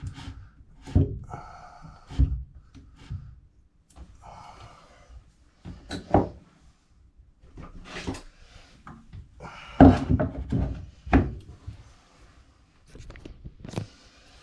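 Irregular knocks and clunks, about seven of them, with short spells of rustling and scraping between, from pipe fittings and tools being handled during boiler piping work.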